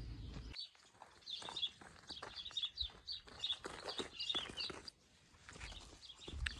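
Small birds chirping in quick, high runs, over scattered footsteps on gravel. A low wind rumble on the microphone cuts out about half a second in.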